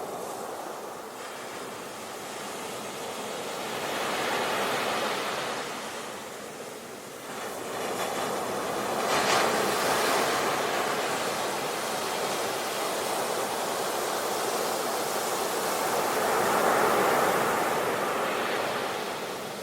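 Sea waves breaking and washing up a beach, the surf swelling and easing three times.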